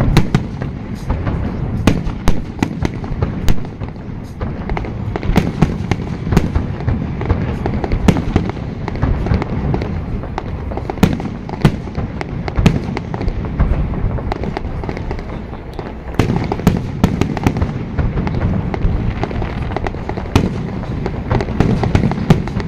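Fireworks display: rapid, irregular cracks and bangs of bursting shells over a continuous low rumble, easing off for a couple of seconds past the middle before picking up again.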